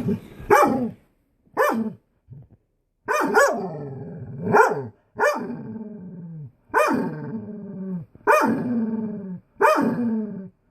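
A dog barking repeatedly, about nine barks, each one falling in pitch, at a furnace floor vent that he is afraid of.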